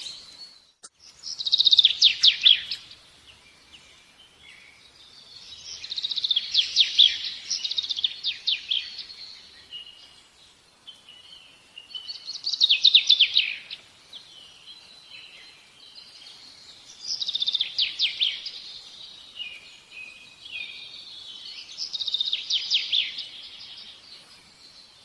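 A bird singing in repeated phrases of rapid trilled notes, one every five seconds or so, with softer chirps in between.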